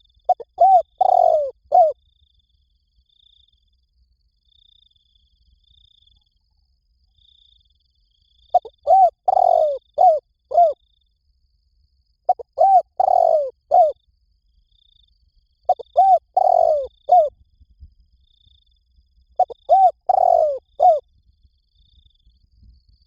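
Spotted dove cooing: five phrases, each a few short coos with a fuller note in the middle, separated by pauses of a few seconds. A faint, evenly spaced high peeping runs behind it.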